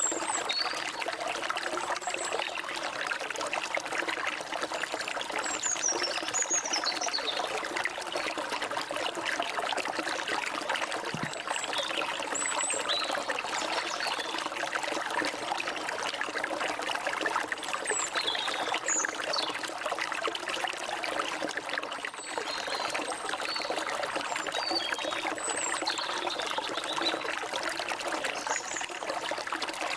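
Stream water trickling and splashing steadily, with small birds giving short high chirps now and then over it.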